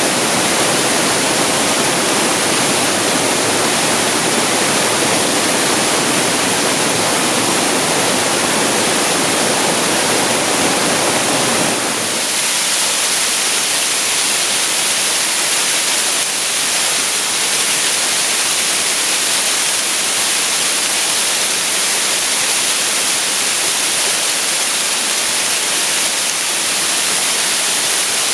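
Waterfall flowing out of a cave, a loud, steady rush of falling water. About twelve seconds in the sound changes abruptly: the deeper part drops away, leaving a thinner, hissier rush.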